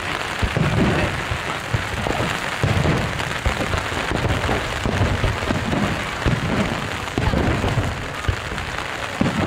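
Steady heavy rain, with low thumps and rumbling underneath.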